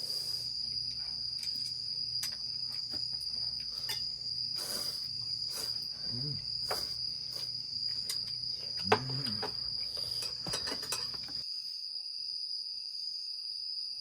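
Crickets chirring in one steady, unbroken high trill. Scattered light clicks and a sharp knock about nine seconds in come over it, and a low hum cuts off near the end.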